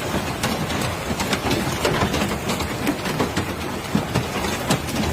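Large hailstones pelting down with heavy rain: a dense, steady hiss full of irregular sharp clacks as the stones strike hard surfaces.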